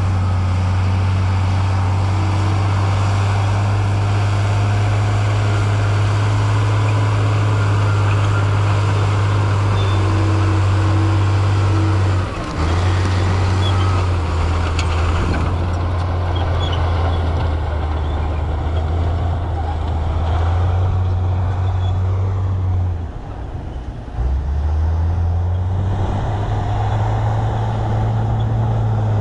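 Heavy diesel engine of earthmoving machinery running steadily, with noise spread widely above the low engine hum. The sound drops off briefly about twelve seconds in and again about twenty-three seconds in.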